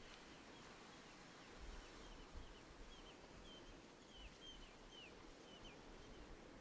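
Near silence outdoors, with a run of faint, short, downward-hooked bird chirps, a dozen or so over about four seconds.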